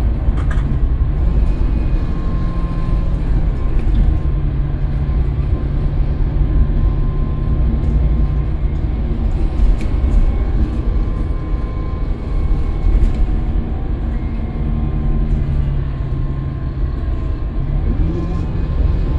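Scania K320UB city bus under way, its engine giving a steady low drone that shifts slightly in pitch, with a short rise in pitch near the end. Light clicks and rattles sound now and then over it.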